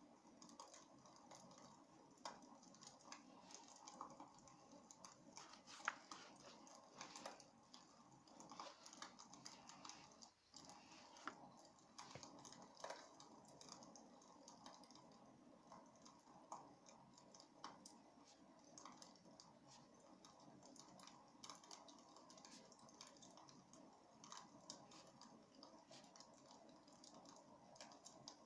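Wood fire crackling faintly in a fireplace: irregular small pops and snaps over a soft steady hiss, with one louder crack about six seconds in.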